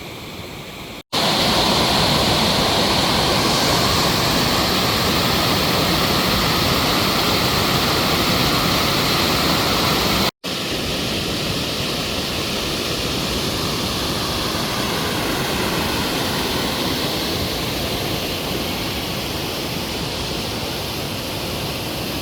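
River water rushing steadily over rocks. It breaks off abruptly twice, about a second in and again about ten seconds in, and comes straight back each time.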